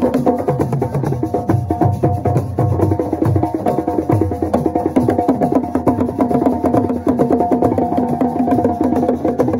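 Fast percussion music: a dense rhythm of rapid drum strikes that keeps going without a pause.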